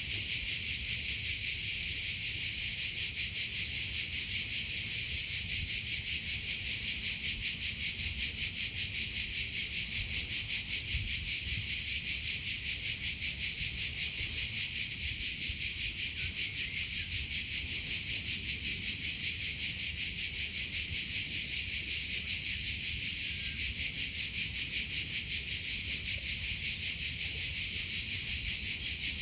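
Cricket chirping continuously in a fast, even pulsing trill, high-pitched and steady.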